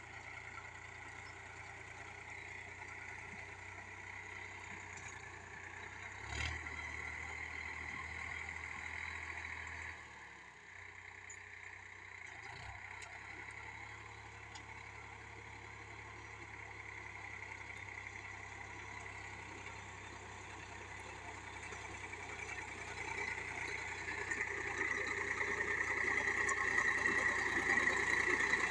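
Sonalika Tiger tractor's diesel engine running steadily, with a sharp knock about six seconds in and a heavier low rumble for a few seconds after it; the engine sound grows louder toward the end.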